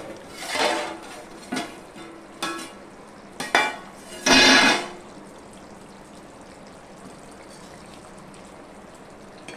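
Chicken curry cooking in a pan: a few knocks and scrapes of a spoon against the pan, with a louder clatter about four and a half seconds in. After that comes a steady sizzle as the curry simmers with the water just added.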